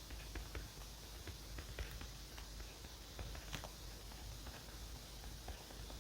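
Fountain pen nib scratching across notebook paper, a run of small irregular ticks and strokes over a faint steady hiss.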